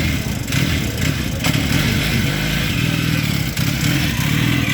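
Vintage motorcycle engine running with a steady, low exhaust note, a constant hiss over it.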